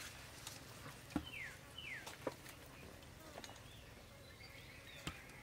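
Quiet outdoor ambience in which a bird gives two short falling whistles, one right after the other, about a second and a half in. A few light knocks come from sauced fried chicken drumsticks being set down on a metal tray.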